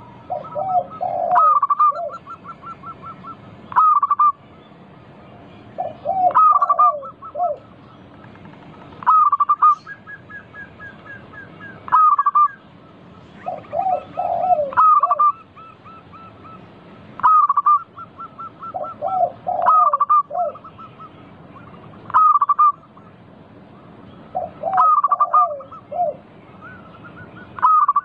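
Zebra doves (perkutut) singing, repeating their staccato cooing phrase about every two and a half seconds, with a lower run of notes and quick trills between phrases.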